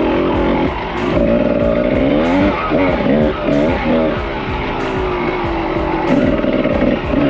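Kawasaki KDX220R single-cylinder two-stroke dirt bike engine being ridden, its revs climbing and dropping repeatedly, with quick blips around the middle, over background music.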